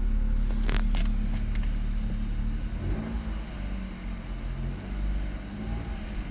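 Chevrolet Trax's 1.2-litre turbocharged three-cylinder engine idling steadily, with two sharp clicks about a second in.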